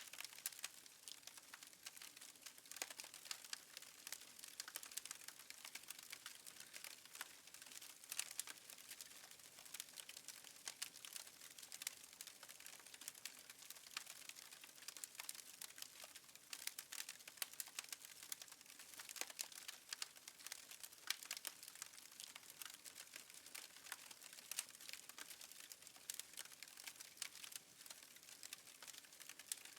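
Faint crackling of a wood fire: a steady stream of small irregular pops and snaps over a light hiss.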